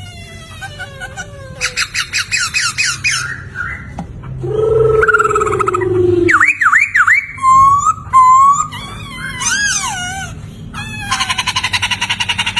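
A poksay (laughingthrush) singing a loud, varied song of whistled slurs and looping notes, with fast rattling trills near the start and again near the end and a lower, drawn-out falling note about halfway through.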